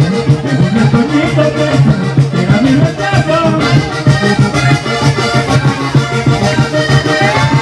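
Classic vallenato played on button accordion, with the caja drum and the scraped guacharaca keeping a steady rhythm. A long held note comes in near the end.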